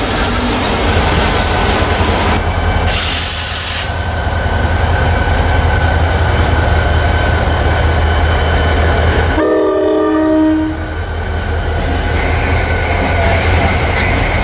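An EMD SD40-2 diesel locomotive passes close by with a steady low engine rumble. About nine seconds in, a train horn gives one short blast of about a second and a half. After that, freight cars roll by with a rising hiss of wheel and rail noise.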